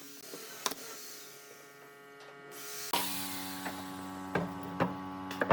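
Steady electric motor hum from workshop machinery. About three seconds in it steps up louder to a deeper hum, with several sharp knocks, the loudest at the end.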